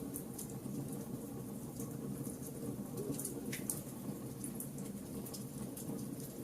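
Wood fire burning: a steady low rumble of flames with frequent small irregular crackles and pops, one sharper pop about halfway through.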